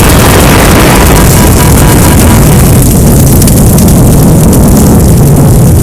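Loud, distorted roaring rumble of an aircraft crashing, a continuous blast of noise with a heavy low rumble. The hiss on top eases a little about three seconds in.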